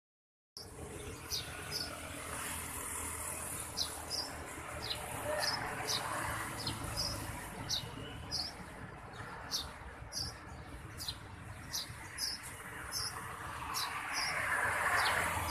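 Birds chirping among park trees: short, sharp high notes repeated about twice a second over steady background noise.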